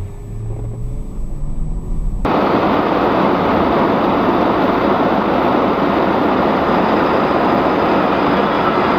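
A vehicle engine hums low with a slowly rising pitch. Just after two seconds it cuts abruptly to a loud, steady rushing noise with no clear pitch.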